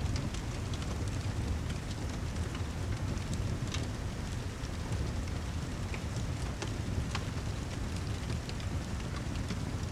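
Steady heavy rain with a deep low rumble underneath and scattered sharp ticks.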